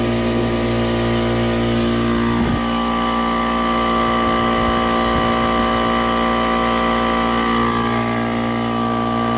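Kobalt electric air compressor running steadily, motor and pump humming at an even pitch, now that its failed start capacitor has been replaced.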